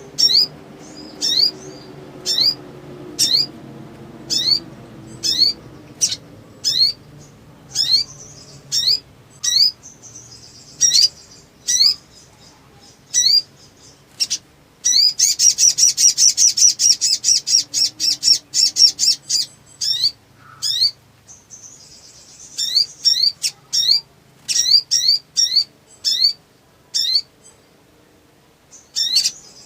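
Sunbird calling in a loud series of short, sharp rising chirps, about one or two a second. In the middle it breaks for several seconds into a fast, dense chattering trill.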